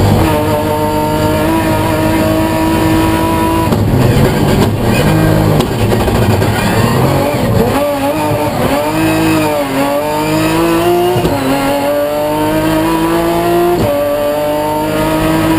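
BMW M3 race car's engine at high revs, rising in pitch as it accelerates, with gear changes about 4 s in and near the end. In the middle the revs dip and swing up and down with throttle blips, as for downshifting into a slower bend.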